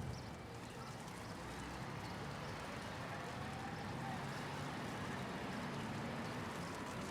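Steady city traffic rumble under an even hiss of falling hail, from a hail-and-traffic sound-effects track; a faint tone rises slowly in pitch about halfway through.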